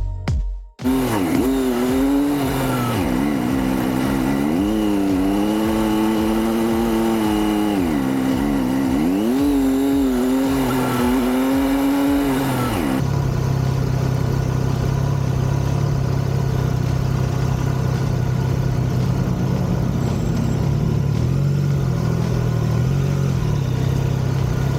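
Triumph Tiger 660's three-cylinder engine under way, its pitch rising and falling over and over with the throttle for about twelve seconds. About halfway through it cuts abruptly to a steady, lower, duller engine drone.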